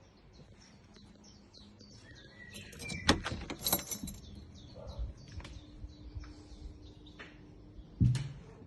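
Small birds chirping and twittering, with a cluster of sharp knocks and clicks about three seconds in and another loud knock near the end.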